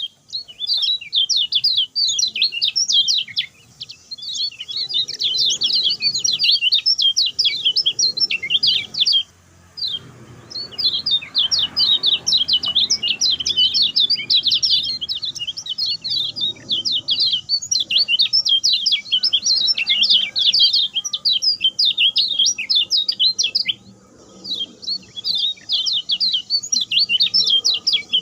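Kecial kuning song: a fast, unbroken run of short, sharp chirps and twitters, the quick 'speed pendek' style, with brief pauses about a third of the way in and again near the end.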